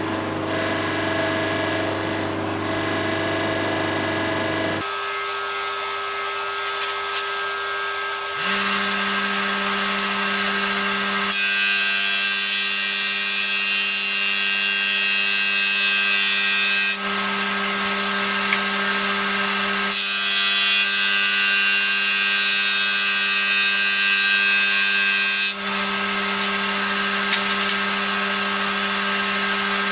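Electric woodworking power tool running with a steady motor hum, broken by long stretches of loud cutting or abrading noise as it works wood. The sound changes abruptly twice in the first nine seconds or so.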